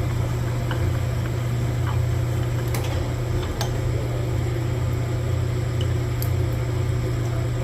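Connecting-rod hone running with a steady low motor hum as a Mitsubishi 2.0 connecting rod's pin bore is honed just a touch to clear a tight spot for the wrist pin. A few light clicks come through, around the middle and near the end.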